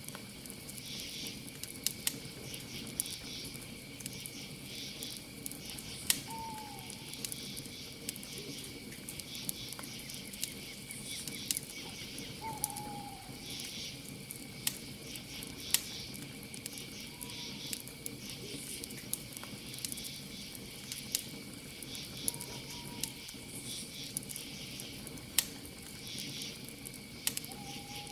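Campfire crackling with frequent sharp pops, under a steady high chorus of crickets. An owl gives a short falling call about every five seconds, five times.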